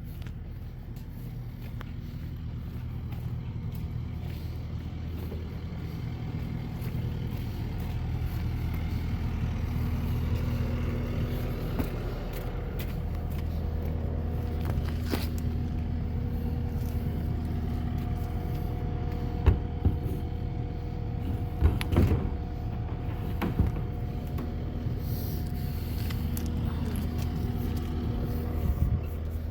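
A vehicle engine running steadily, with a few sharp knocks a little past the middle.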